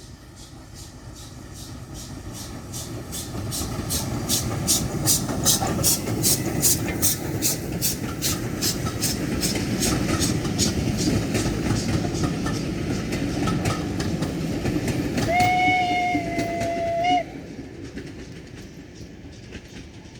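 A steam-hauled train passes, its low rumble swelling over the first few seconds with an even rhythm of beats at about two to three a second. About fifteen seconds in, a steam whistle sounds one steady note for under two seconds, and the train sound falls away after it.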